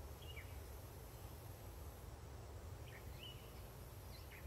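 Quiet outdoor ambience: a steady low rumble with a few short bird chirps, one near the start and several more about three to four seconds in.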